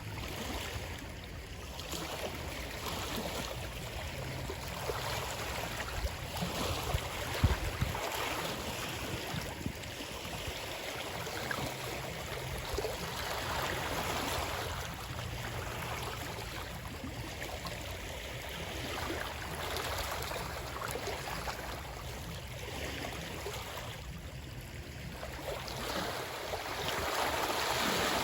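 Steady rush of flowing water, swelling and easing every few seconds, with a brief louder knock or splash about seven seconds in.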